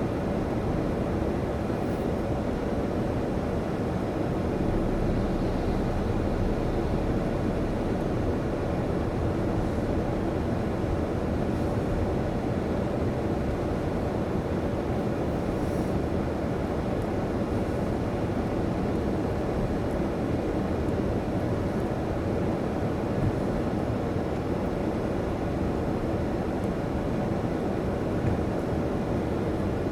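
Steady low mechanical rumble with a faint constant hum, unchanging throughout.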